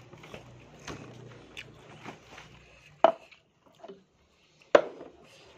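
Close-up crunching and chewing of crispy fried grasshoppers, small crackly clicks, then two sharp, loud clicks about three and four and three-quarter seconds in.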